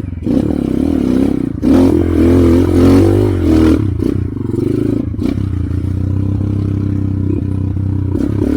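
Trail motorcycle engine firing up again just after stalling on a steep descent, revved for about two seconds and then running steadily.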